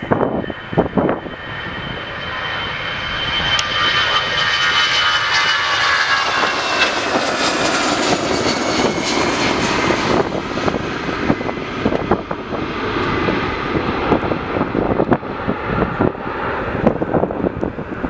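Jet airliner passing close by. Its engines build to a loud rush around the middle, and the high engine whine slides down in pitch as it goes past. Wind buffets the microphone in gusts at the start and again near the end.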